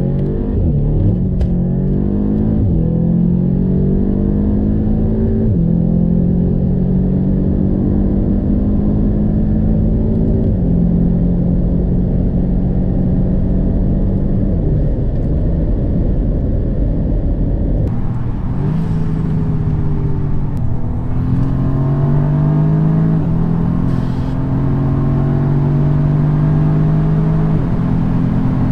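Audi S3 8V's turbocharged four-cylinder engine pulling hard, its pitch climbing and dropping back at each quick DSG gear change. It holds a steady pitch for several seconds in the middle, then pulls up through the gears again.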